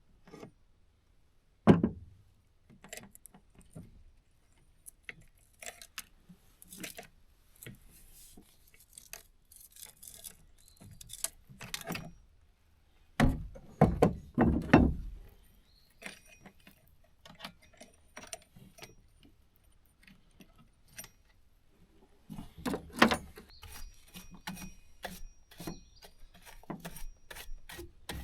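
Objects being handled and set down: scattered clinks, knocks and thuds, with heavier thumps about two seconds in, around thirteen to fifteen seconds in, and around twenty-three seconds in.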